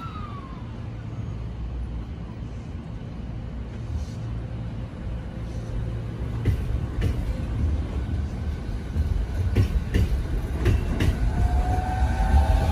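E217-series electric commuter train pulling out of the platform and picking up speed. A low rumble builds steadily, the wheels clack over rail joints from about halfway through, and near the end the traction motors' whine rises in pitch.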